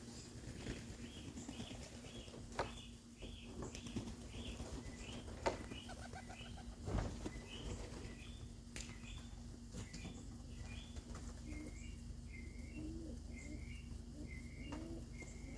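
Pigeon wings flapping as the flock comes down, with a few sharp claps. A small bird chirps in a quick repeated series, roughly two chirps a second, over a steady low hum.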